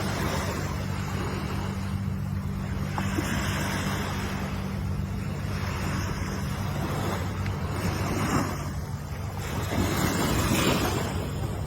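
Ocean waves breaking and washing on the shore, swelling in repeated surges every two to three seconds over a steady low rumble.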